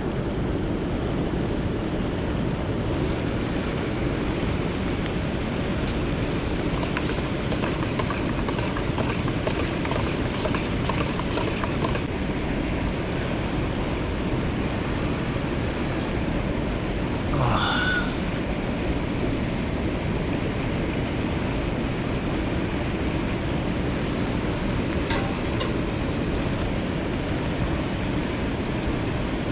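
Mountain stream rushing steadily. Scattered light clicks come in about seven to twelve seconds in, and a short squeak sweeps up and back down a little past halfway.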